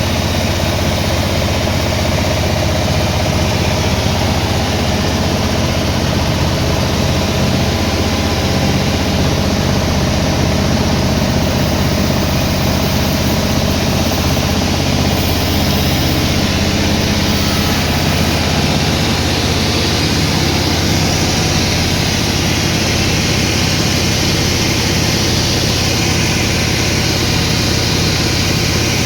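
Sawmill engine running steadily at a constant speed, a continuous low hum that holds without a break.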